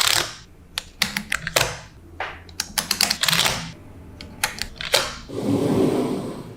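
Small magnetic balls clicking sharply as they snap together and are pressed into place, in an irregular run of clicks, some in quick clusters. A softer rustling stretch comes about five seconds in.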